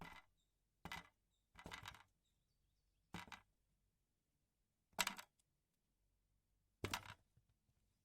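About six short, sharp bursts from a pan of green chillies frying in oil, with dead silence between them.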